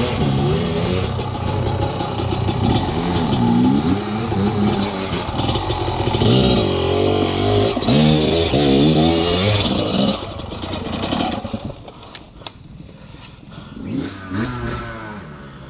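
Enduro dirt bike engine revving up and down in repeated bursts as it is ridden over a rough trail, then dropping much quieter about eleven seconds in, with a few knocks.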